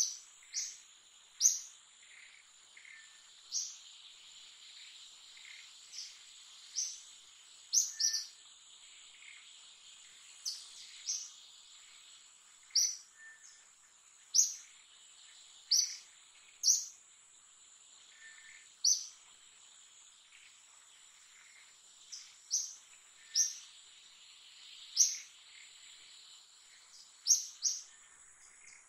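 A bird repeating short, sharp, high chirps every second or two, irregularly, over a steady high-pitched insect drone.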